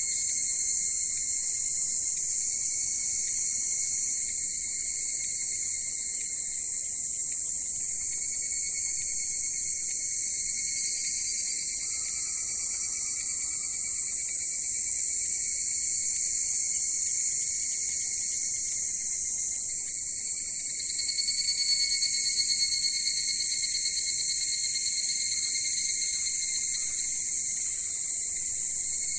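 Dense chorus of singing insects, several steady high-pitched trills layered together without a break.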